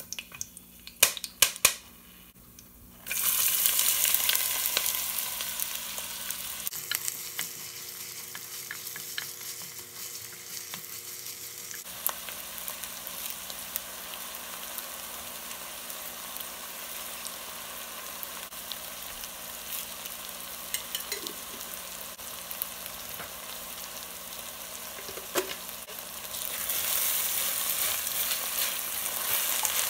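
Chopped onions sizzling as they fry in oil in a pot, stirred with a wooden spatula. A few sharp knocks come first, then the sizzle starts suddenly about three seconds in, settles quieter and grows louder again near the end.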